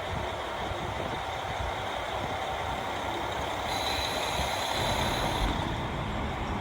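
KiHa 40 series diesel railcar's engine running with a steady low rumble, and a hiss for a little under two seconds about four seconds in.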